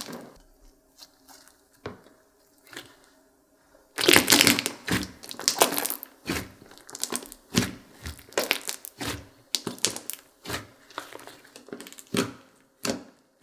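Slime being squished and stretched by hand, giving wet crackling and popping clicks from trapped air. It is faint for the first few seconds, then busy and continuous from about four seconds in.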